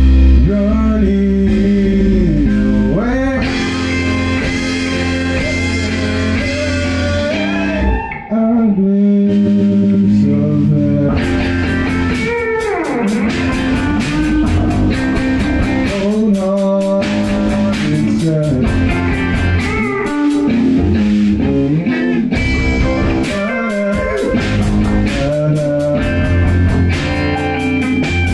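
A rock band rehearsing a blues-rock passage: a guitar plays bending, sliding lead lines over a bass, with a quick run of sharp percussive hits joining in about eleven seconds in.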